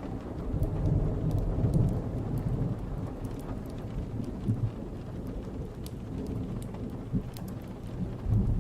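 Thunderstorm ambience: steady rain with low rolling thunder that swells about a second in and again near the end, with scattered sharp clicks over it.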